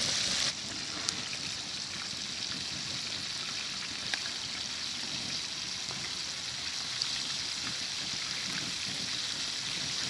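Chicken pieces deep-frying in hot oil in a discada: a steady sizzle with scattered small pops, dropping a little in level about half a second in.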